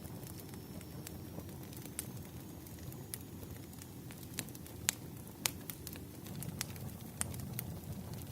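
Wood fire crackling: a steady low rumble of burning logs with scattered sharp pops, the two loudest about five seconds in.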